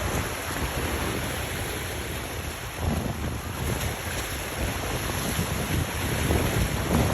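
Wind buffeting the microphone in gusts over the wash of waves, with the low rumble of passing boats blended in.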